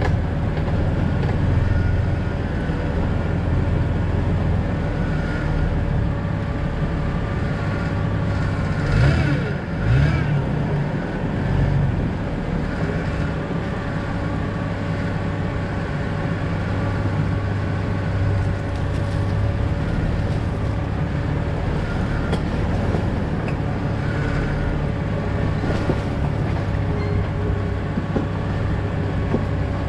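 2000 Jeep Cherokee XJ driving steadily, with continuous engine and tyre rumble. A brief louder surge with changing pitch comes about nine to eleven seconds in.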